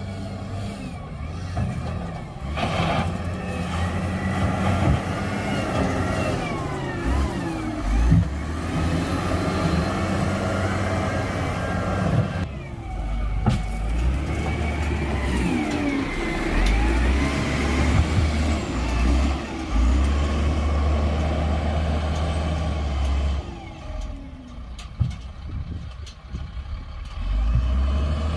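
Heavy diesel construction machinery working: engines running steadily, rising and falling in pitch as they rev, with a few knocks, and easing off for a few seconds near the end.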